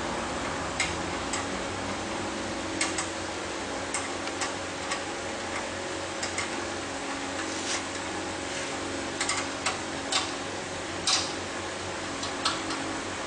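Irregular sharp clicks and taps, a few at a time with uneven gaps, over a steady background hum.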